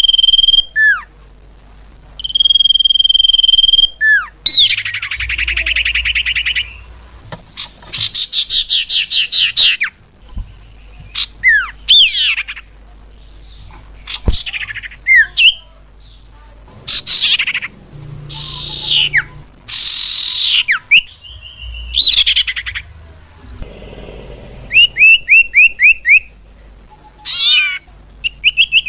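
Cipau birds calling in a string of separate loud phrases: held whistled notes, quick downward-sweeping notes, fast buzzy trills and rapid runs of short repeated notes. This is a bird-luring call.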